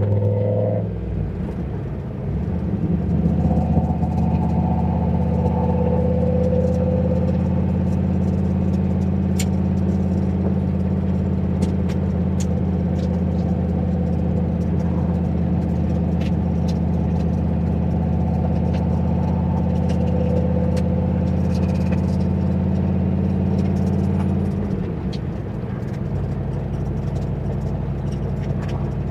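Turbocharged Ford 351 Windsor V8 in a Fox-body Mustang, driving at a steady cruise with an even, low engine drone. Pitch and level shift about a second in, as from a gear change, and the engine eases off about 25 seconds in.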